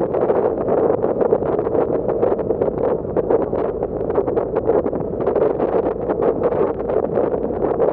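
Steady rushing noise of a passenger ferry underway: engine and water wash, with wind buffeting the microphone.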